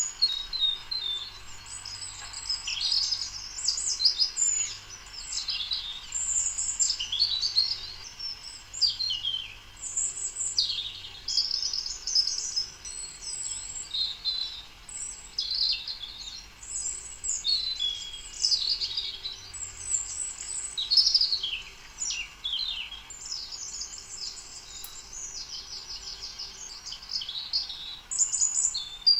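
Many small birds chirping and twittering at once, a busy chorus of overlapping short high calls and trills.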